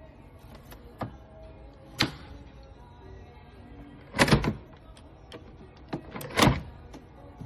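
Sharp plastic-sounding clunks and clacks, single ones about one and two seconds in and two louder clusters a little past the middle, over faint background music.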